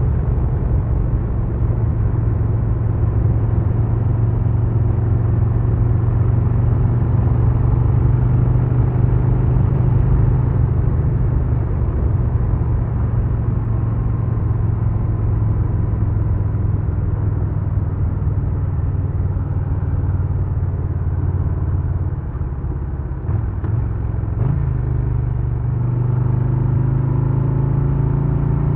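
Harley-Davidson Low Rider S Milwaukee-Eight 117 V-twin running at a steady cruise under a rider's on-board recording. About three-quarters of the way in it eases off with a brief break, then the pitch rises as it accelerates.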